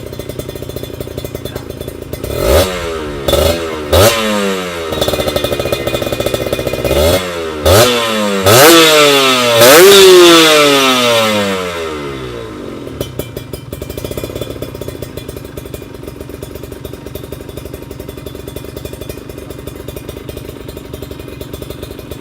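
Kawasaki Ninja 150 RR two-stroke single-cylinder engine breathing through an aftermarket R9 Mugello exhaust: idling, then blipped sharply a few times, then held in a longer high rev that falls back, settling to a steady idle for the second half.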